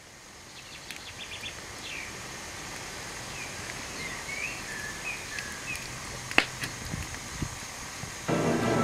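Outdoor ambience with a soft steady hiss and small birds chirping in short, quick calls. A single sharp click comes about six and a half seconds in, and music begins near the end.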